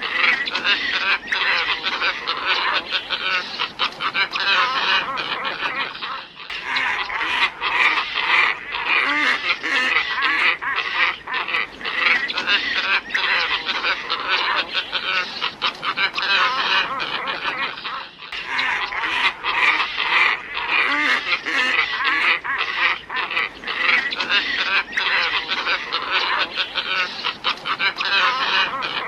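Glossy ibis calls played as a bird-lure recording: many birds calling over one another without pause, with short breaks about six and eighteen seconds in.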